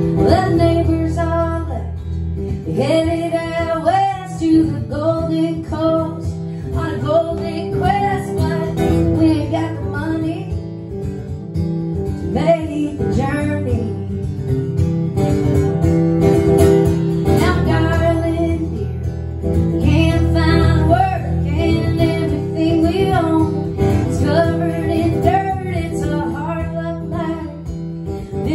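A woman singing a song to strummed acoustic guitar, performed live.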